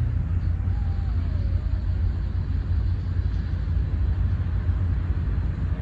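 Outdoor ambience dominated by a steady low rumble, with a faint wavering call or voice briefly about a second in.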